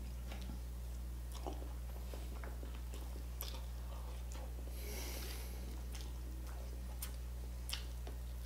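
Close-miked chewing of roast chicken (lechon manok), with a few sharp mouth clicks and smacks spread through and a brief soft hiss near the middle. A steady low hum runs underneath.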